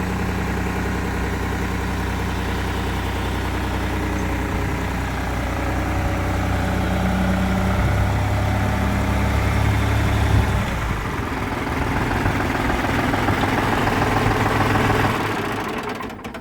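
Tractor's diesel engine idling with a steady note. About ten seconds in the note changes and turns rougher, then it fades out near the end.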